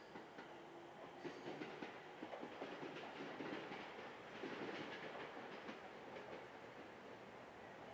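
Container freight train rolling along the line, its wheels clicking repeatedly over the rail joints.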